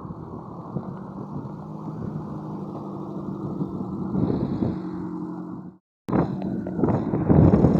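Suzuki Samurai's engine running under load with a steady drone, slowly growing louder. It cuts off just before six seconds in, then comes back louder and rougher.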